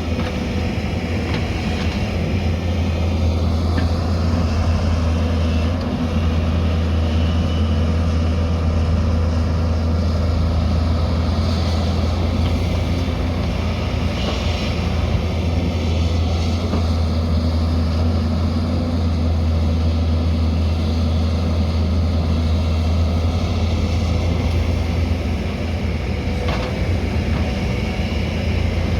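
Diesel engine of heavy earthmoving machinery, a backhoe loader or excavator, running steadily under work with a constant low drone.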